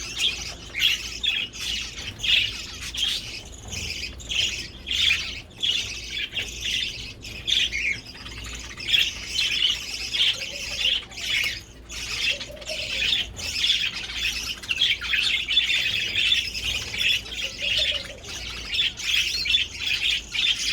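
A flock of aviary finches, zebra finches among them, calling continuously in short, rapid chirps that overlap one another.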